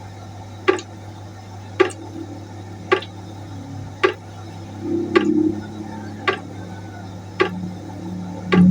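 Water droplets dripping into a pot at an even rate, a sharp drip a little more often than once a second, over a steady low hum.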